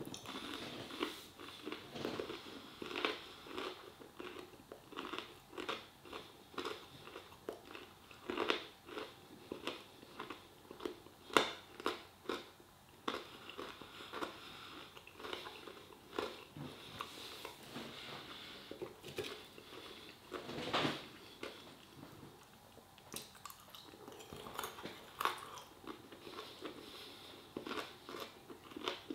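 A person chewing a fried chicken bite close to the microphone: short, sharp mouth and chewing sounds at irregular intervals.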